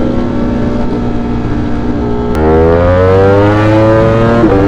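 V4 sport motorcycle engine running steadily, then about halfway through the throttle opens and the engine climbs in pitch under acceleration. Near the end the pitch drops sharply at a gear change.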